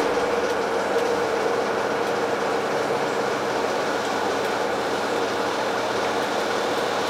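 Steady running noise inside a moving diesel regional train: an even rumble of wheels and engine with a constant hum.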